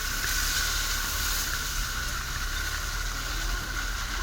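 UAZ off-road vehicle running on a mountain road: a steady low engine rumble under a haze of hiss, with a constant thin whine.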